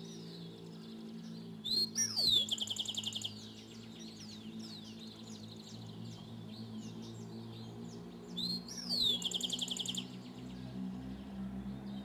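Dawn chorus of birds: one songbird sings twice, each song a downward-sliding whistle ending in a fast trill, over many softer chirps from other birds. A steady low hum runs underneath.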